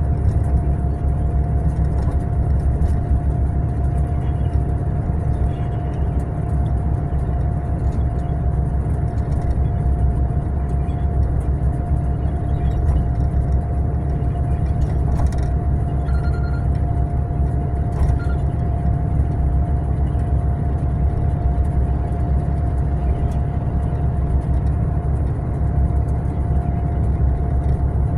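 Steady low rumble of a Mercedes-Benz long-distance coach running, heard from inside the passenger cabin, with a constant thin whine over it and a few faint ticks and rattles.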